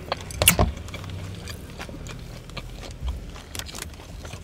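Close-up eating sounds: a person chewing food, with a few sharp clicks and smacks in the first second and softer scattered ticks after.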